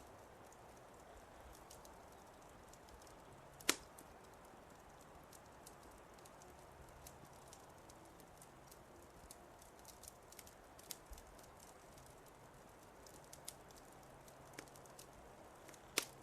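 Faint crackling of a wood fire in a fireplace: a soft hiss with small scattered pops, and two sharper pops, one about four seconds in and one near the end.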